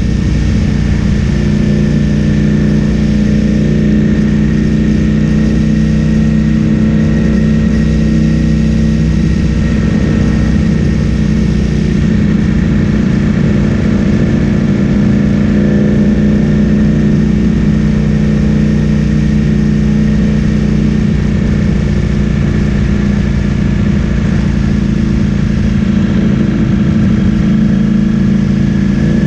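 Ducati Streetfighter V4S's 1103 cc V4 engine breathing through an Akrapovic full-system exhaust, running loud at fairly steady revs while the bike is ridden.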